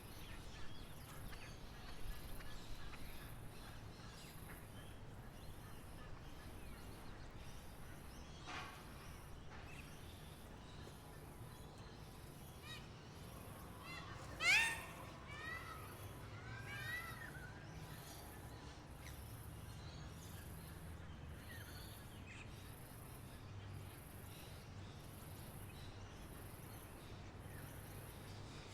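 Birds calling sparsely over a steady outdoor background with a low rumble and a faint high hiss that pulses about once a second. The loudest moment is one short, sharp call about halfway through, followed by a few quick chirps.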